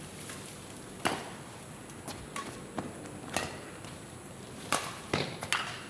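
Badminton rally: a handful of sharp racket hits on the shuttlecock at irregular intervals, with players' footsteps on the court.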